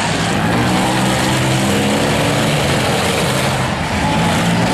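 Demolition derby cars' engines running loudly, several at once, in a dense continuous din.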